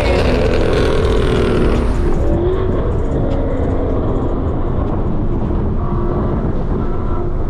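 Car engine running, with a steady low rumble.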